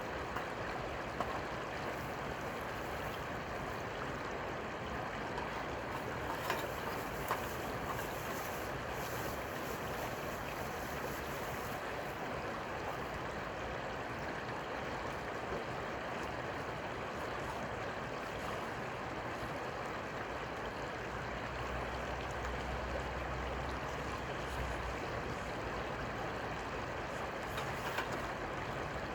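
Steady rushing noise of water, with a few faint clicks.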